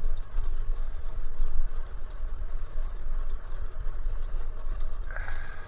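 Wind buffeting the microphone with road noise from a bicycle riding along, a heavy uneven rumble throughout. A brief steady tone sounds near the end.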